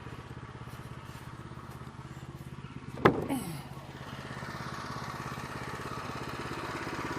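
Small gasoline engine of a Woodland Mills HM122 bandsaw mill idling steadily, with one sharp knock about three seconds in as cut boards are set down.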